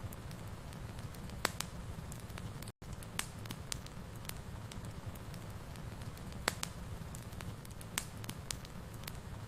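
Wood fire burning in a fireplace: a steady low rumble of flames with irregular sharp crackles and pops. A split-second dropout in the sound about three seconds in.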